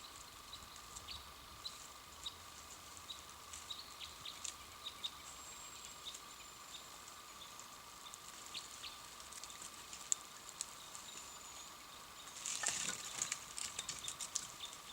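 Campfire crackling with sparse small pops, over a faint steady high tone. Near the end the crackling grows denser and louder for a second or two.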